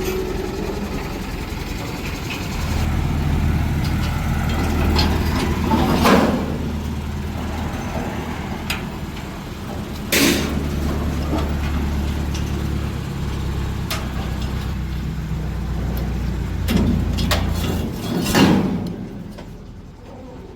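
Heavy vehicle engine running steadily at a low hum, broken by three short loud bursts about 6, 10 and 18 seconds in; the engine sound dies away near the end.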